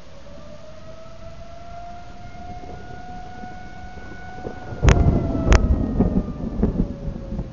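Outdoor civil defense warning siren wailing, its pitch slowly rising and then falling, sounding a tornado warning. About five seconds in, two loud cracks of thunder break in, followed by low rumbling.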